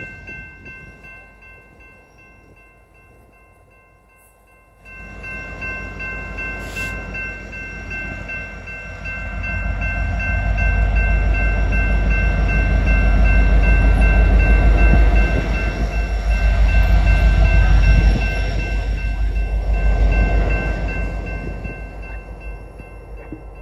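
Union Pacific freight train's autorack cars rolling past, then the rear diesel locomotive goes by with a loud, low engine rumble that builds about five seconds in, peaks midway and fades away as the end of the train passes. A steady high ringing tone runs underneath.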